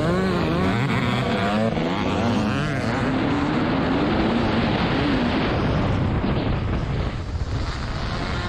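A TM 300 two-stroke dirt bike engine being ridden hard on a motocross track, its pitch rising and falling with the throttle and gear changes.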